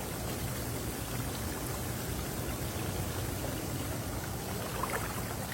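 Hot tub water churning and bubbling steadily.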